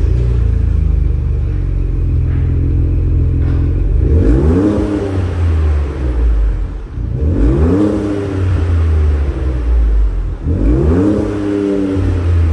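2022 Ford Bronco's 2.7 L twin-turbo V6 through an aftermarket axle-back exhaust, firing up and idling, then revved three times, each rev rising and dropping back to idle.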